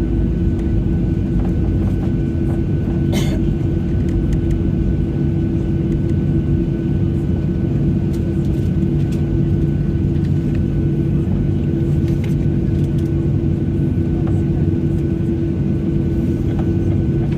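Steady cabin drone of a Boeing 737-800 with its CFM56 jet engines running, heard from inside the passenger cabin: an even hum with a faint steady whine above it. There is a brief click about three seconds in.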